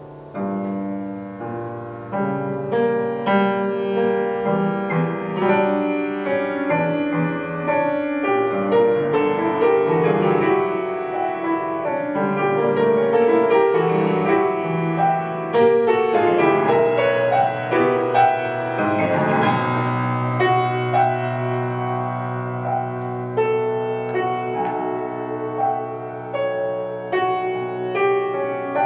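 Piano playing a solo passage of a contemporary classical art song, with dense chords and runs and a low bass note held from about two-thirds of the way in.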